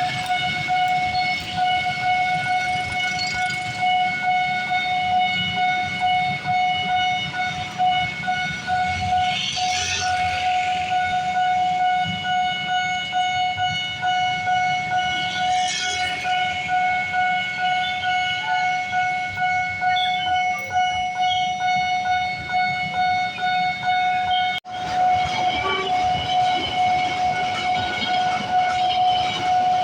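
Railroad level-crossing warning alarm sounding a steady high tone, over the low rumble of a train on the tracks.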